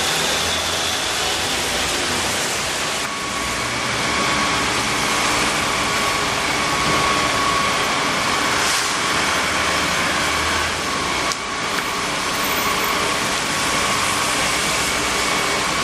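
Heavy rain on city streets mixed with road traffic: a steady rushing noise, with a faint steady whine running through it.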